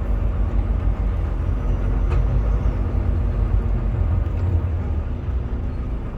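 Semi truck's diesel engine and tyre noise on the highway, a steady low rumble, with a faint tick about two seconds in.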